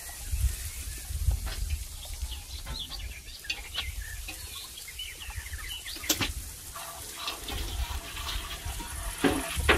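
Chickens clucking in a farmyard, with scattered light clicks and taps over a low rumble. The clucking grows louder near the end.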